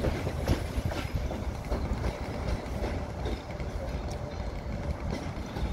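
Arriving passenger train rolling past, its wheels clicking irregularly over rail joints and points above a steady low rumble.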